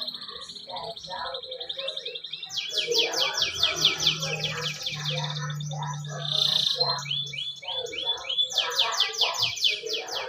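Domestic canary singing: fast high-pitched trills and runs of repeated sweeping notes, switching to a new phrase every second or two, over a faint low hum.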